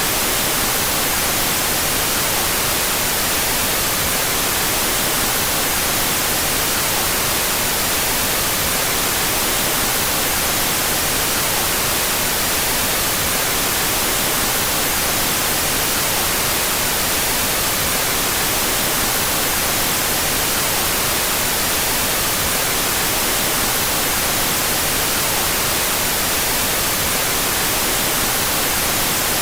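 Steady white noise, an even, unchanging hiss that is strongest in the treble, generated with the stereo channels out of phase.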